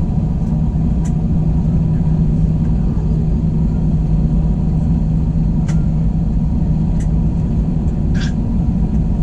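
Airbus A321 cabin noise heard from a window seat: the steady rumble and low hum of the running jet engines and air system, with a few faint ticks and short chirps of cabin sounds now and then.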